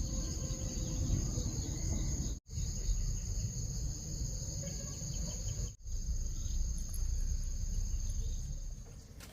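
Insects, crickets by their sound, trilling steadily in a high, continuous tone over a low rumble. The sound drops out abruptly twice, for a split second each time.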